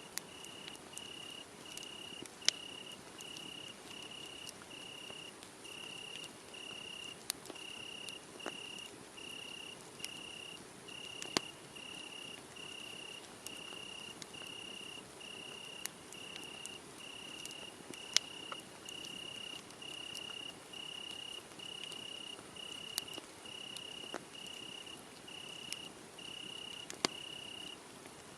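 A cricket chirping steadily at one high pitch, about three chirps every two seconds, over a wood fire crackling, with scattered sharp pops and a few louder snaps.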